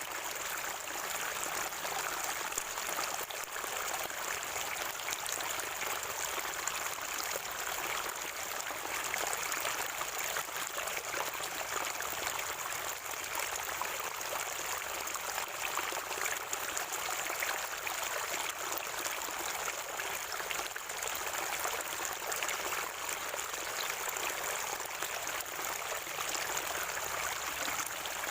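Natural spring water gurgling and trickling in a steady, unbroken flow.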